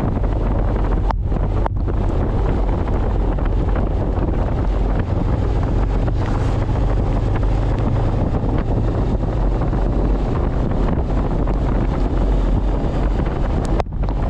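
Wind rushing over a helmet-mounted microphone while riding a motorcycle, a loud steady roar, with the Honda CB500X's parallel-twin engine running steadily underneath.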